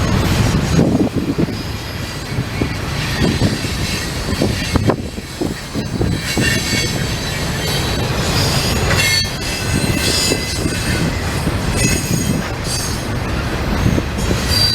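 Freight cars of a long CN intermodal train rolling past: a steady low rumble of wheels on rail, with high-pitched wheel squeal coming and going and occasional clacks over the rail joints.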